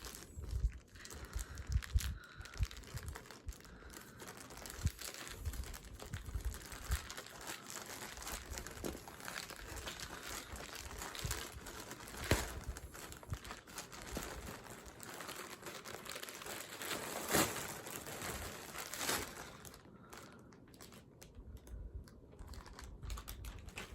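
Packaging crinkling and tearing as a parcel is opened by hand, a continuous rustle with scattered sharp crackles. It thins to a few light clicks for the last few seconds.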